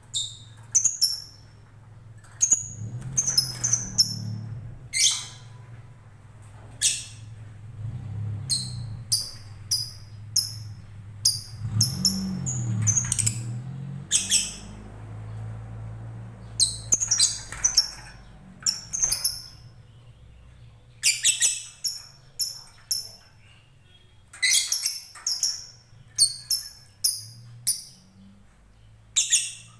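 Blue-and-white lovebird making short, sharp, high chirps and squawks. They come in quick clusters with pauses of a second or two between them.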